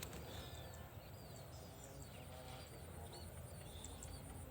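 Small birds chirping faintly with short, scattered calls over a quiet rural background.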